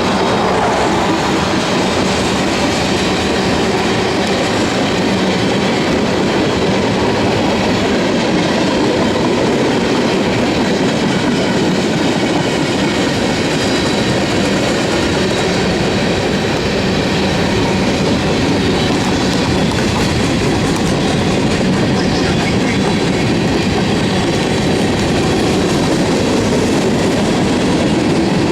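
Freight train cars rolling past on the rails, a steady loud rumble of wheels and cars that does not let up.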